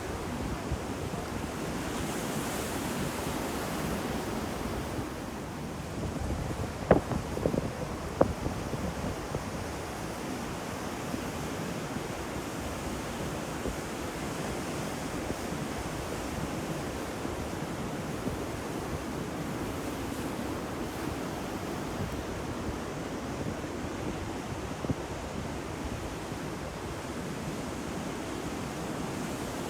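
Ocean surf washing on the shore in a steady roar, with wind on the microphone. A few sharp knocks come about seven to eight seconds in.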